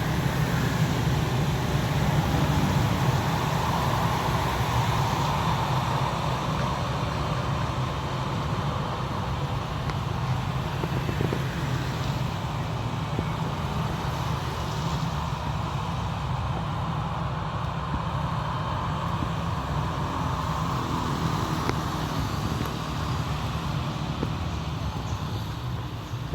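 Steady low rumble of engines with a wash of noise, swelling twice and easing slightly toward the end.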